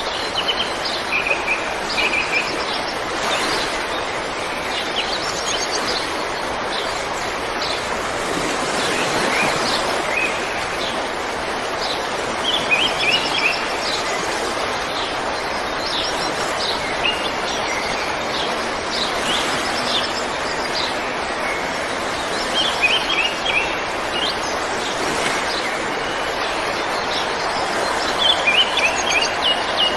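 River water running steadily, with birds chirping in short, quick clusters over it.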